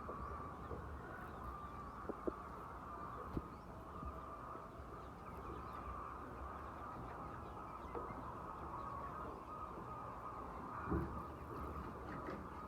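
A flock of laying hens in a poultry house, a steady mass of clucking with a few short knocks scattered through, the loudest near the end.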